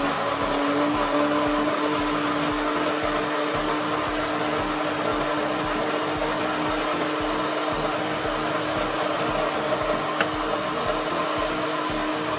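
A small electric appliance motor running steadily, a constant hum over a rushing noise, stopping near the end.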